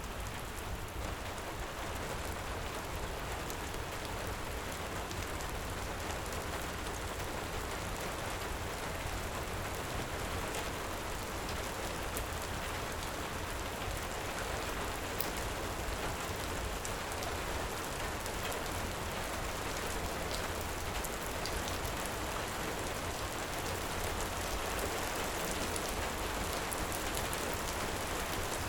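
Heavy rain falling steadily, with scattered sharp crackles of a wood fire through it.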